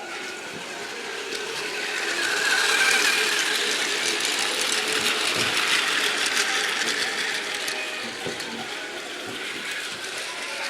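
Model train running on its track: motor and gears whirring, with many small clicks. It grows louder over the first few seconds, as if coming close, then eases off.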